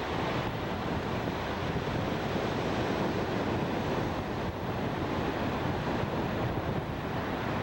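Steady rushing noise of wind on the microphone, even throughout.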